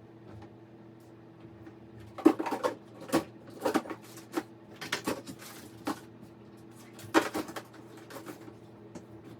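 A run of irregular knocks and clatters, about a dozen over five seconds, over a steady low hum.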